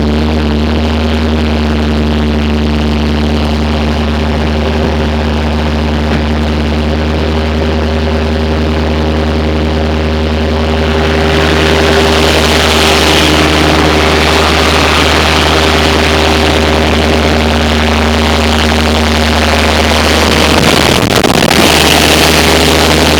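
Bobcat S150 skid steer's diesel engine running steadily. About halfway through it grows louder, with a rushing noise added on top of the engine note.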